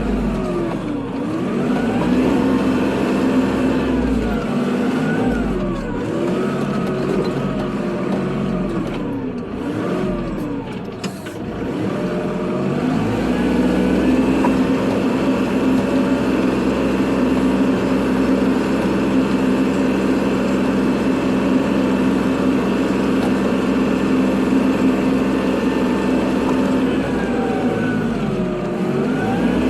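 Kubota tractor's diesel engine working while plowing snow. Its pitch rises and falls repeatedly for the first dozen seconds, then holds steady, easing off once more near the end.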